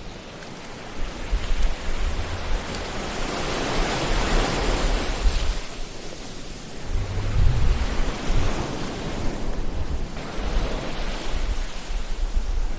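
Ocean waves on a shore: a steady wash of surf that swells to a peak about four to five seconds in and ebbs again, with a low rumble underneath at times.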